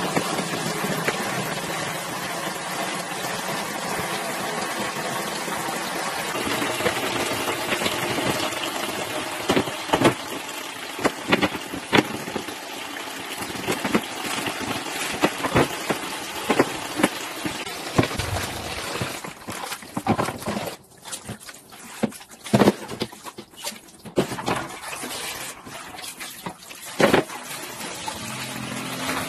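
Water running steadily with knocks and clatter of things being handled during cleaning. About two-thirds of the way through the water stops, leaving a few scattered sharp knocks.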